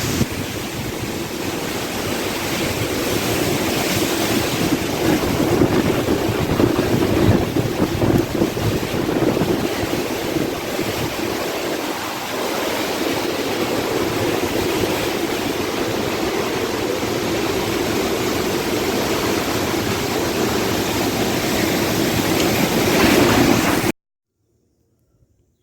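Strong storm wind blowing in gusts and buffeting the microphone in a loud, steady rush. It cuts off suddenly near the end.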